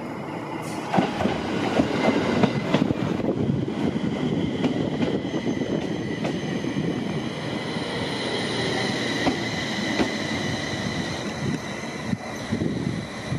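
JR East 701 series electric train pulling into the station and braking to a stop. Its wheels rumble and click over the rail joints at first. A steady high whine builds as it slows and fades as it comes to rest near the end.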